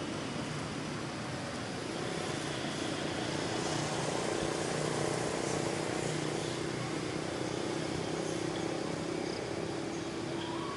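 A motor vehicle engine running nearby, a steady low hum over outdoor noise that swells a little toward the middle and eases off again.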